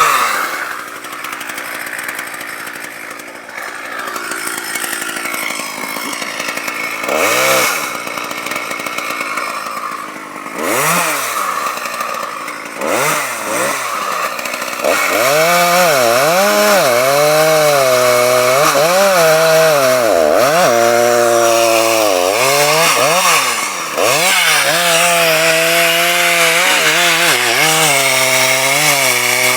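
Two-stroke chainsaw revving up and down in short bursts, then running at high throttle under load from about halfway through, sawing into a tree trunk while felling it, with brief dips in engine speed.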